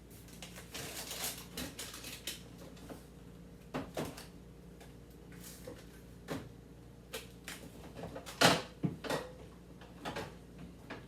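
Containers and jars being handled and moved around in a refrigerator: scattered clicks, taps and knocks, with the loudest knock about eight and a half seconds in and a brief rustle near the start.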